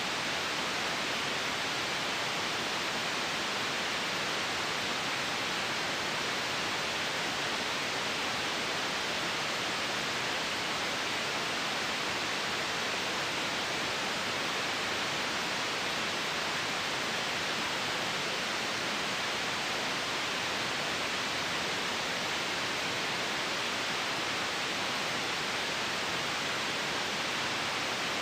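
Steady, unchanging white-noise hiss, with more treble than bass.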